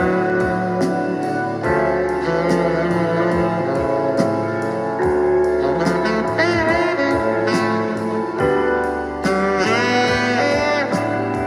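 Music with a saxophone playing through a Bose SoundDock Series 1 speaker dock. The dock is working again after a no-sound fault.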